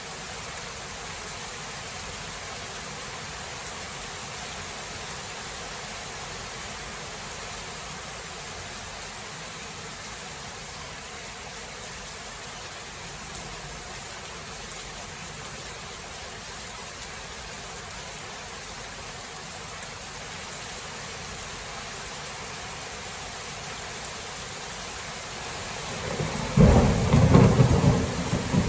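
Steady rain hiss of a thunderstorm; near the end a loud thunderclap breaks in and rumbles low.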